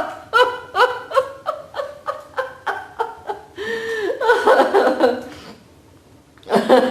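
Deliberate laughter-yoga laughing: rhythmic ha-ha bursts about three a second, then a longer rolling laugh, a short pause, and a new burst of laughter near the end.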